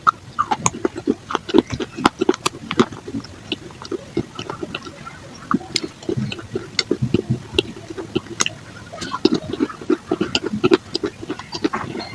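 Rapid, irregular crunching of dry baked clay being bitten and chewed close to the microphone, several sharp cracks a second over duller chewing crunches.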